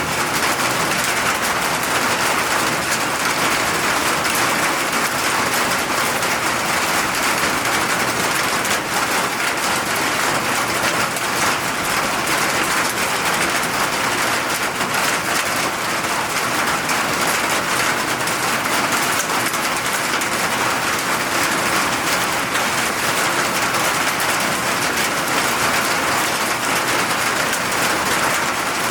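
Steady rain falling, an even hiss of drops pattering on surfaces with no change in strength.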